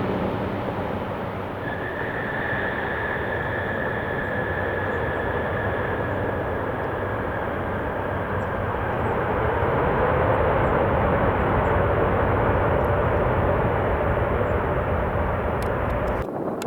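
Boeing 747 jet engines running loud and steady as the jumbo jet lands, with a high whine over the engine noise for several seconds and the sound swelling a little past the middle. The sound changes abruptly just before the end.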